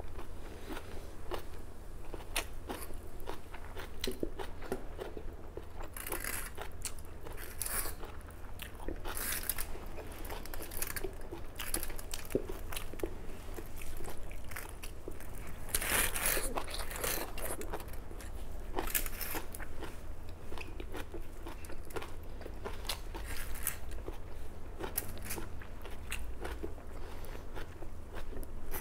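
Close-up chewing and crunching of a mouthful of boiled leafy greens and instant noodles, in irregular bursts with a few louder crunches, over a steady low hum.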